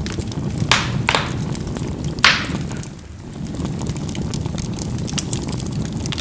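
Charcoal burning in a fireplace: a steady low rumble of flame with fainter crackling, and three sharp pops from the charcoal, two about a second in and a louder one a little over two seconds in. The rumble eases briefly about three seconds in.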